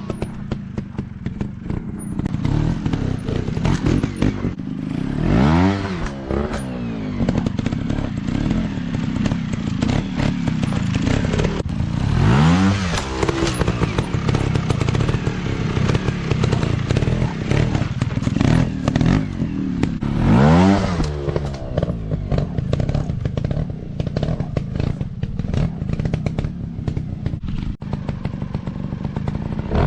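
Off-road dirt bike engines running, revved up sharply three times about seven seconds apart, with clattering knocks throughout.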